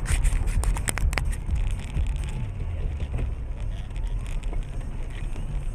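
Car driving, its engine and road noise a steady low rumble picked up by a dashcam, with a few sharp clicks in the first second.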